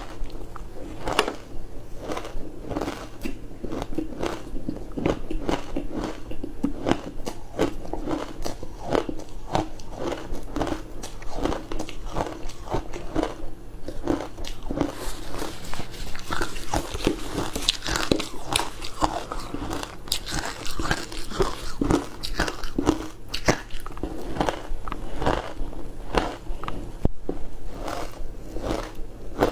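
Close-miked biting and chewing of frozen food: a steady run of sharp, crackling crunches, several a second.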